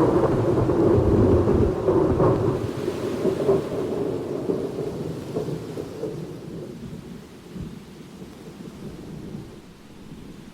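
A thunderclap over rain: a sudden loud crack at the start gives way to a low rolling rumble with a few crackles, which slowly fades over the following seconds.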